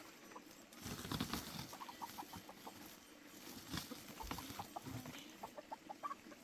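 Chickens clucking: runs of short, quick calls, with a few knocks and rustles.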